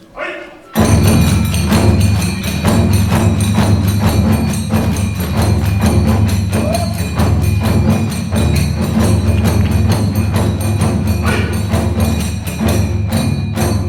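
Kagura hayashi ensemble of big and small taiko drums and hand-clapped tebyoshi cymbals playing a fast, driving beat that bursts in suddenly about a second in.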